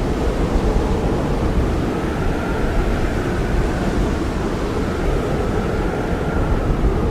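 Blizzard wind: a steady heavy rush with a deep rumble and a faint whistling tone that rises and falls.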